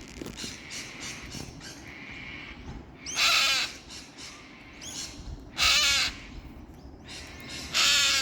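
Cockatoo screeching three times, harsh rasping calls each under a second long, a little over two seconds apart, with fainter calls between them. The bird is agitated at a climber in its tree.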